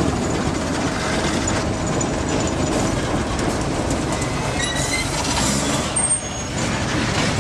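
TEM2U diesel shunting locomotive running with a steady, dense rumble, with a brief high-pitched squeal about five seconds in.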